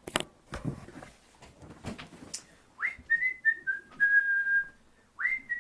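A whistled phrase: a quick upward scoop, then short notes stepping down to a long held note. The phrase starts again near the end, after a few soft clicks in the first seconds.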